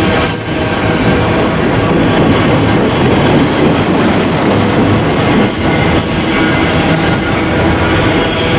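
Train passing at close range: a steady rumble of wheels on rail with intermittent high-pitched wheel squeal.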